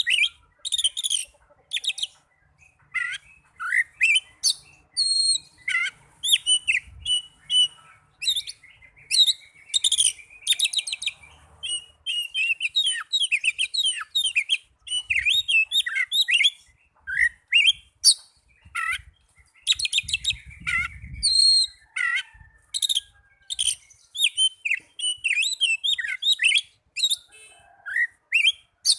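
Oriental magpie-robin singing a fast, varied song of whistles, chirps and sweeping notes in short phrases broken by brief pauses.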